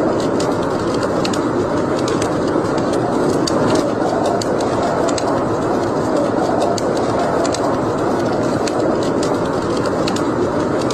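Wood fire burning in a fireplace: a steady rush of flames with frequent small, sharp crackles and pops scattered irregularly throughout.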